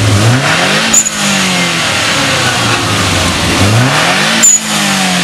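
Subaru Legacy's turbocharged flat-four engine blipped twice from idle, the pitch rising and falling each time, with a sharp crack near the top of each rev.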